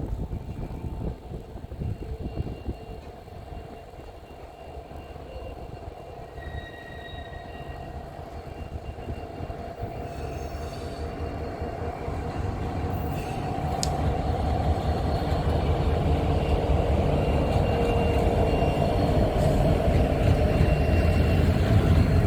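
A train approaching, its rumble growing steadily louder from about four seconds in.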